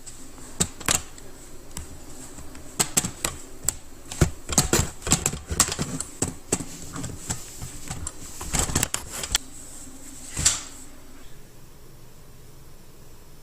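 An irregular series of sharp clicks and knocks, some coming in quick clusters, that stops about ten and a half seconds in.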